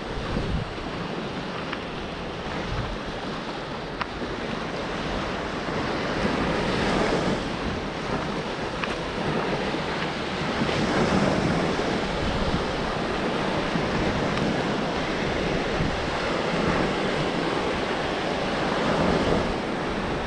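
Gulf surf washing onto the beach in slow swells every few seconds, with wind buffeting the microphone.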